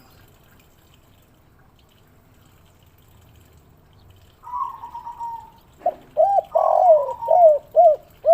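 Spotted dove (derkuku) cooing: after about four seconds of quiet, one short call, then a quick run of rounded coos near the end.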